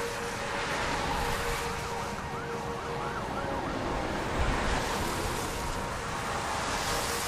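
A steady rush of noise, like wind on the microphone, with a faint wavering siren about two to three seconds in.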